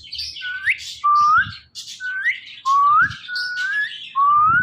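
Ringneck parrot giving a run of short rising whistles, about one a second, between harsher chirps.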